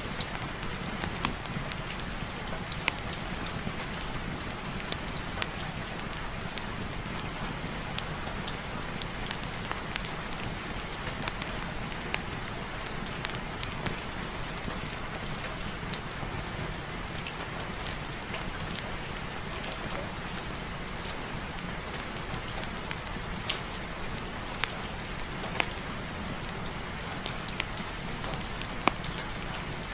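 Steady heavy rain falling, an even hiss dotted throughout with short sharp ticks of individual drops.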